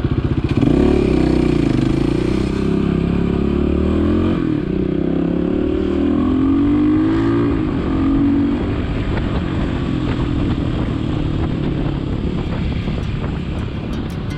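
Motorcycle engine ticking over, then pulling away about half a second in and accelerating, its note climbing and dropping back several times as it works up through the gears, then running at a steadier cruise.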